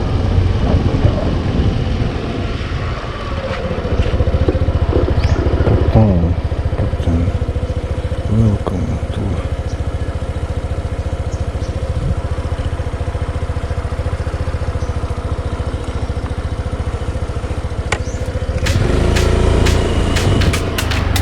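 A motor vehicle's engine running steadily, with a heavy low rumble.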